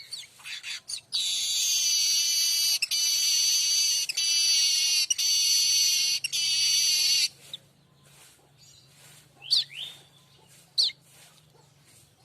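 A manyar kembang weaver singing a long, high, buzzing song in several stretches with tiny breaks, then two short sharp chirps near the end.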